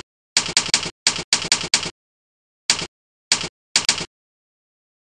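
Key-press sound effects played by the Jingle Keyboard program, one short clack for each key typed: about a dozen in quick runs of two to four, then a few single ones, stopping about four seconds in. There is dead silence between the clacks, as with sound coming straight from the computer rather than a microphone.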